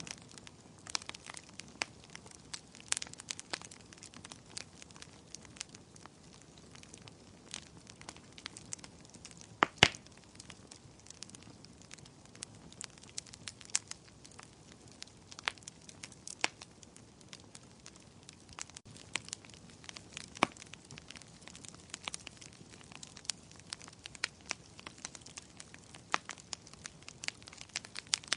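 Wood fire burning in a fireplace, crackling with irregular sharp pops over a low steady hiss; the loudest pop comes about ten seconds in.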